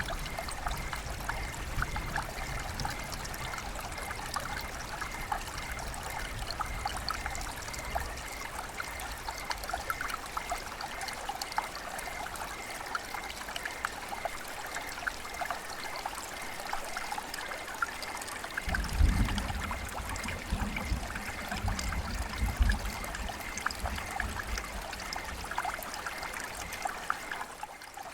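River water flowing and trickling: a steady rushing babble with many small splashes. From about two-thirds of the way through, irregular low rumbles come and go beneath it.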